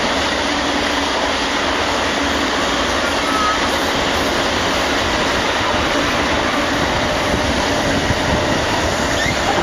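Freight train rolling past, a steady noise of wheels on the rails.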